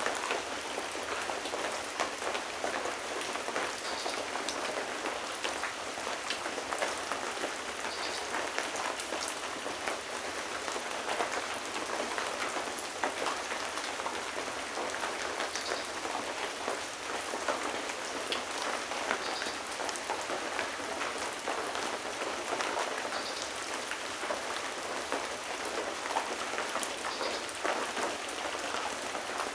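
Steady rain falling on a surface, a continuous hiss with many small drop ticks scattered through it.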